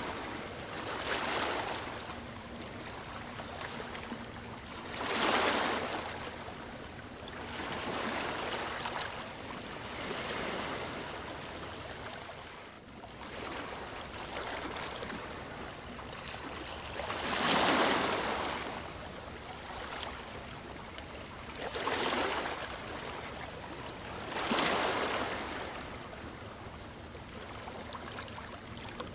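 Ocean waves washing onto a shore: a steady wash of water that swells into a louder rush every few seconds and falls back, about seven surges in all.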